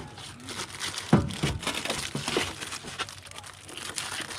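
Plastic being handled: crinkling and rustling with irregular clicks and knocks, one sharp knock about a second in.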